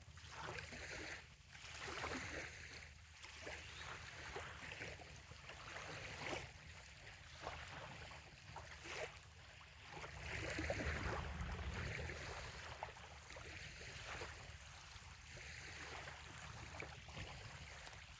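Small waves lapping gently at a sandy bay shoreline, rising and falling in irregular swells every second or two with light splashing. A louder low rumble swells up about ten seconds in.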